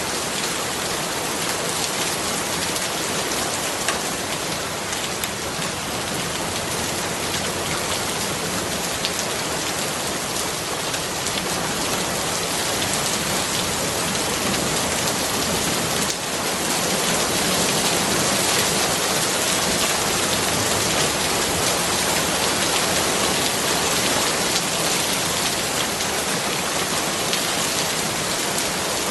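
Steady rain falling on a surface, a dense even hiss full of fine drop ticks, growing a little louder just past the midpoint.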